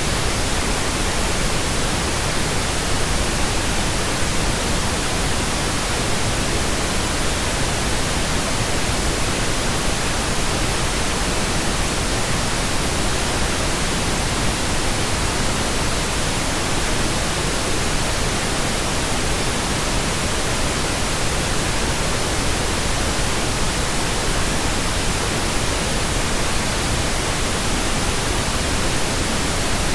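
Steady pink noise, computer-generated: an even, unchanging hiss spread across all pitches, with no breaks or events.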